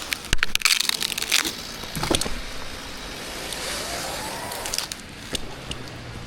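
A chainsaw stops revving, followed by a run of sharp cracks and snaps of breaking wood and branches. The saw revs faintly about four seconds in and settles into a low idle near the end.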